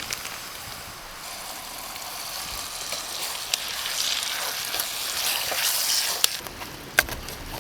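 Marinated meat sizzling as it fries in hot oil in a pot over a campfire. The hiss swells in the middle, and a few sharp spattering pops come near the end.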